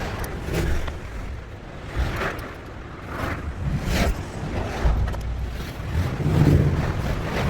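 Hand tools working on the metal of an engine bay: irregular sharp knocks and clicks about once a second over low rumbling handling noise, as the automatic belt tensioner is being unbolted.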